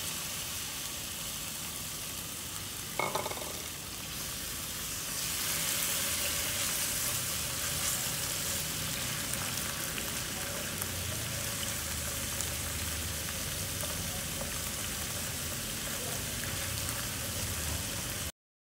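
Diced marinated chicken sizzling in hot oil in a nonstick frying pan while it is stirred with a silicone spatula. There is a brief clatter about three seconds in, the sizzle grows louder about five seconds in, and it cuts off suddenly near the end.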